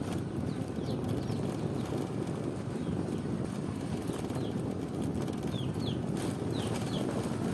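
Small birds giving short, high, downward-sliding chirps, a dozen or so scattered through, over a steady low rumbling noise.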